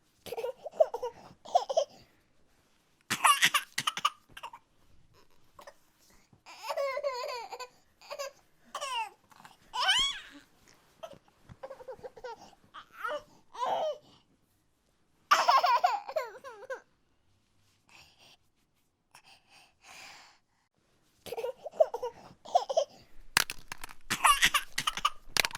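A small child's voice laughing and babbling in short bursts with pauses between them, the pitch sliding up and down; a few clicks near the end.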